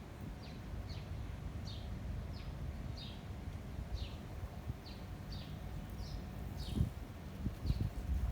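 A bird repeating a short, high, downward-sliding chirp about twice a second, over wind rumbling on the microphone, with a couple of stronger gusts near the end.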